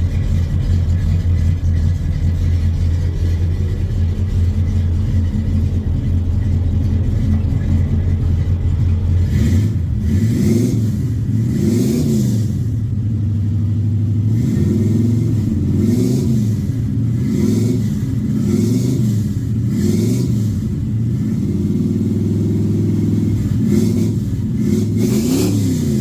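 Truck engine idling steadily after a cold start. From about ten seconds in it is revved again and again in quick blips, each rising and falling in pitch.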